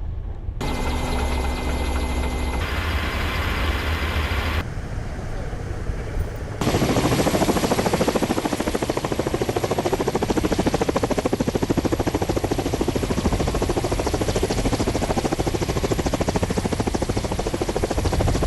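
Kamov Ka-27M coaxial-rotor helicopter running: rotor chop with a steady high turbine whine. The sound jumps abruptly several times in the first seven seconds, then settles into a louder, continuous, even rotor beat.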